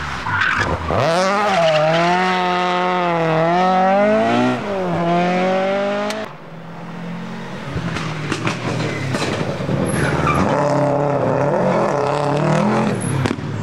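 Rally car engines at full throttle on a stage: one car revs hard, holding high revs and dropping at a gear change before cutting off abruptly about six seconds in, then another car comes in and its engine builds up through the revs.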